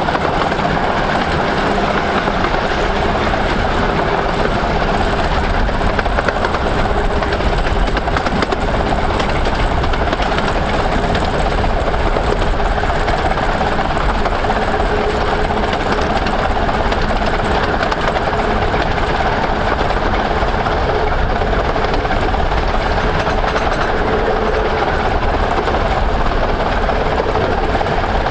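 A 15-inch-gauge Romney, Hythe & Dymchurch Railway train, hauled by steam locomotive No.5 Hercules, running steadily along the line: a continuous, even rumble of the moving train.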